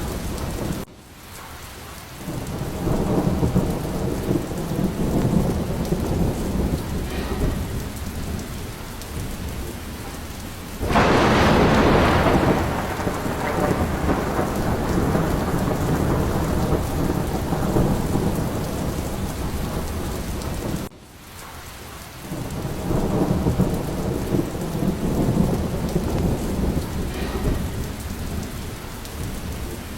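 Steady rain with rolling thunder. The rumbles swell and fade, and a loud thunderclap breaks in about a third of the way through, then rumbles away.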